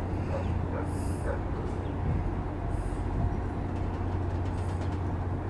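Steady low hum of a ferry's engines and machinery, with a faint high hiss that comes back about every two seconds and a few faint short chirps over it.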